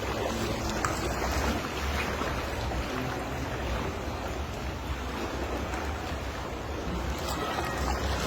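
Sea water washing and splashing in a steady rush, with wind rumbling on the microphone.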